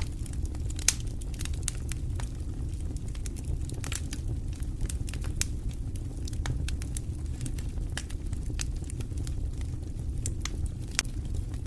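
Wood fire in a fireplace crackling and popping at irregular intervals, several pops a second with a few louder snaps, over a steady low rumble.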